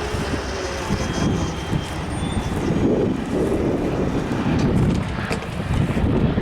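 Long Island Rail Road train passing: a steady rumble with a few sharp clicks, and wind gusting on the microphone.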